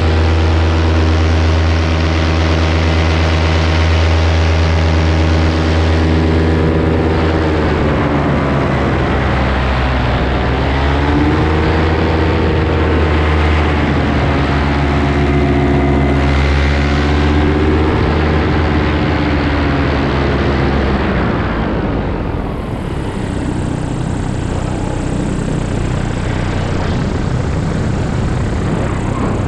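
Paramotor engine and propeller running steadily in flight. Its pitch dips and comes back up a few times as the throttle is eased and reopened. About two-thirds of the way through the engine is throttled back, leaving mostly rushing air and a lower, rougher engine note.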